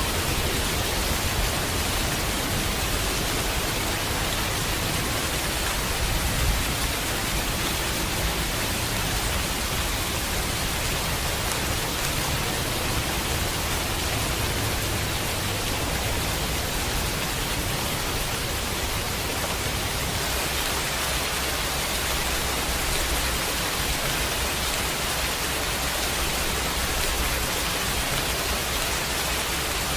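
Steady heavy rain: a dense, even hiss of downpour that holds unchanged throughout.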